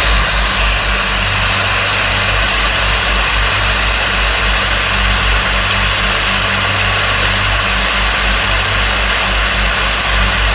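Waterfall's steady rush of falling water, loud and close, with a deep rumble underneath.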